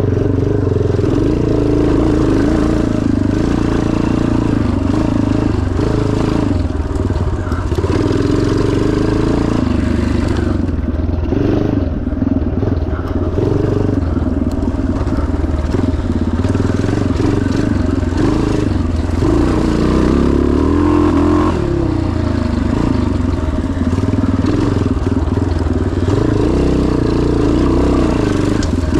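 1977 Yamaha TT500's single-cylinder four-stroke engine running hard off-road, its revs rising and falling over and over.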